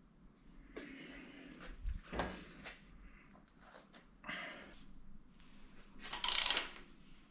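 Metal engine parts and hand tools being handled on a bench: a few knocks and clunks about two seconds in, then a short noisy burst about six seconds in.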